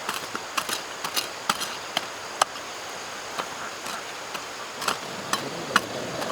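Irregular sharp clicks and knocks of hand-tool work, sometimes several in a second, over a steady background hiss.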